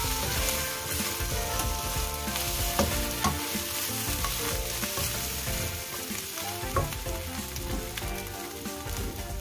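Shrimp and scrambled egg sizzling in a hot nonstick wok while a spatula stirs and scrapes them. Sharper spatula knocks come about three seconds in and again near seven seconds.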